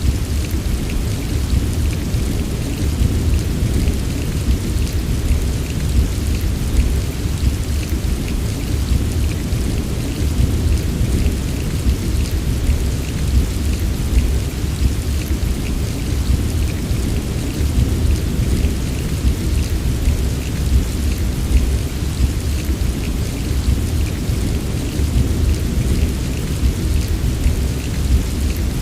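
Heavy rain falling steadily, with many small drops pattering over a deep, even rumble.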